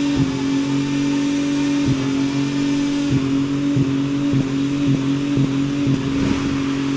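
Car engine held at high revs during a burnout, a steady droning note broken by about eight sharp cracks, as the tyres spin and throw up pink smoke.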